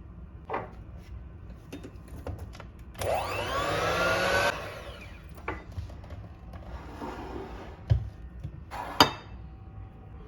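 A small electric kitchen appliance motor runs in one short burst of about a second and a half, its whine rising as it spins up, then stops abruptly. Light clicks and knocks of kitchen work come before and after, with a sharper knock near the end.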